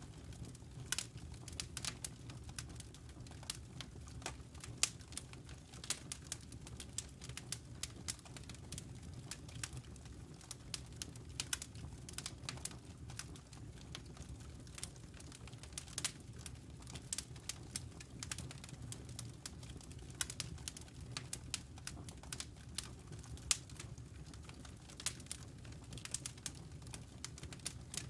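Campfire burning, crackling with irregular sharp pops and snaps, several a second, over a low steady rumble.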